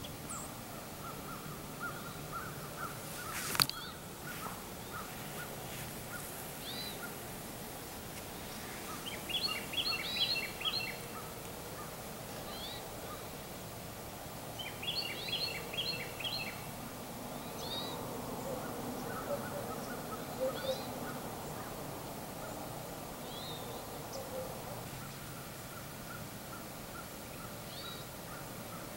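Rural outdoor ambience with birds calling: scattered single chirps and two bursts of rapid, repeated calls, around ten and fifteen seconds in. A single sharp click about three and a half seconds in is the loudest sound.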